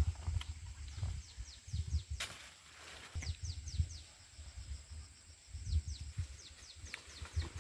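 Outdoor countryside ambience: a bird calling in quick runs of short falling chirps, over a steady high thin hum and irregular low rumbles.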